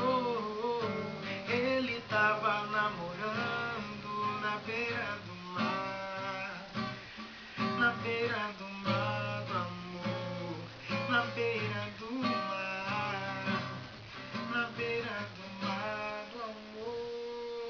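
Acoustic guitar strummed, accompanying a samba-style song, stopping near the end.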